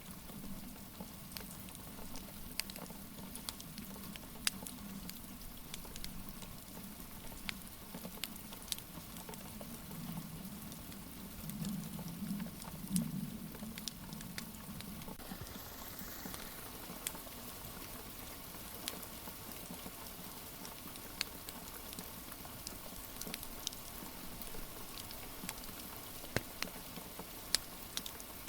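Wood fire crackling with scattered sharp pops over a steady hiss of rain. A low rumble swells through the first half and fades out about halfway through.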